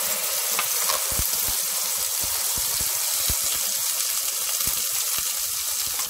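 Onion-tomato paste frying in hot oil with cumin seeds in a nonstick pan: a steady sizzle, with scattered light clicks from a spatula stirring it.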